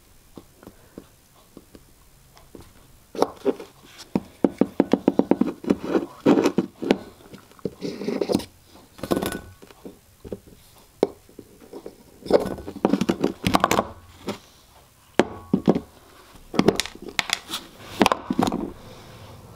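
Small hard objects handled on a workbench: a run of quick taps and clicks a few seconds in, then scattered knocks and scrapes, as epoxy is prepared for a cast of a gear tooth.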